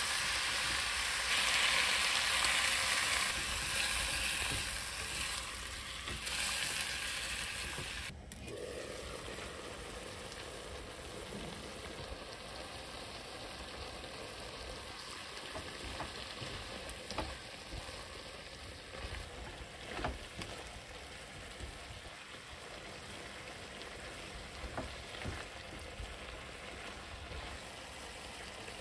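Sliced round squash and onion sizzling in a pan with a little water and seasoning, stirred with a spatula. About eight seconds in the sizzle drops to a quieter, steady simmer, with a few light taps later on.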